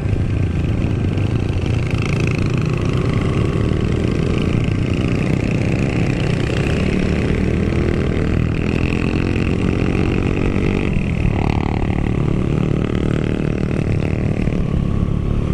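Classic Honda CB motorcycle engine running under way, its pitch rising and falling with the throttle, over a heavy low rumble of wind on the microphone.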